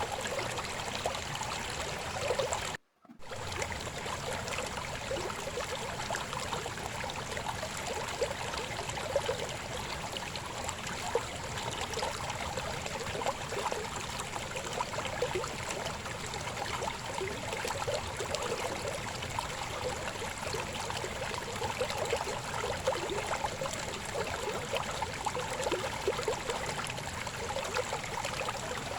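Babbling river flowing steadily, with a bubbling, splashing texture. The sound cuts out to silence for a moment about three seconds in.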